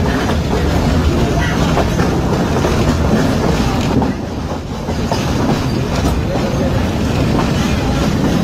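Passenger train coaches running at speed, heard from aboard: a steady loud rumble of wheels and bogies on the track, with irregular clicks as the wheels pass over rail joints.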